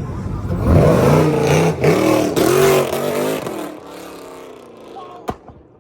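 Tuned car engine revving loudly, its pitch rising and falling several times, then dying away. A sharp click near the end.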